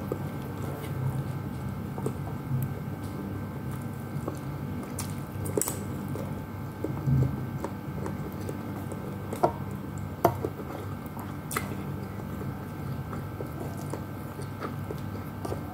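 Close-up chewing and mouth sounds of a person eating chicken and rice by hand, with scattered sharp clicks over a steady low hum.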